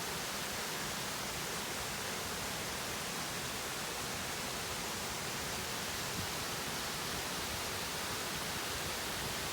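Steady, even rushing noise with no distinct events, holding one level throughout.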